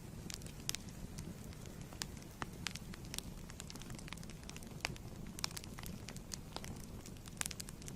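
Wood fire burning in a fireplace: a steady low rumble with irregular sharp crackles and pops, several a second at times.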